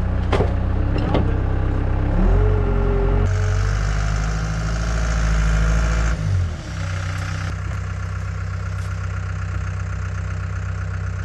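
CAT 252B skid steer's diesel engine running steadily. From about two seconds in to about six seconds it works harder, deeper and louder with a rising hydraulic whine, as the machine pushes under load, then eases back to steady running. Two sharp cracks come in the first second or so.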